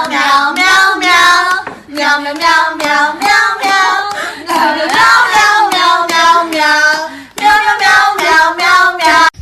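A high voice holding long, wavering sung notes, loud, broken by a few short pauses and cut off suddenly at the end.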